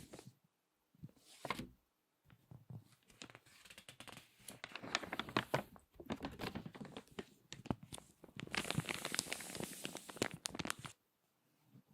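Crinkly magazine pages being handled, turned and squeezed, giving dense crackling crinkles. There is a short burst about a second in, then almost continuous crinkling from about two seconds in that stops shortly before the end.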